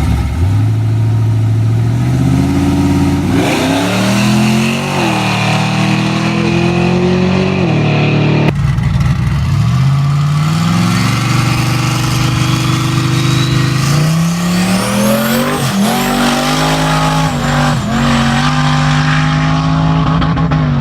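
Turbocharged Acura Integra four-cylinder engine pulling hard through the gears, the revs climbing and dropping back at each upshift, with a high whine that climbs with the revs. About eight seconds in the sound breaks off and a new hard pull starts from low revs.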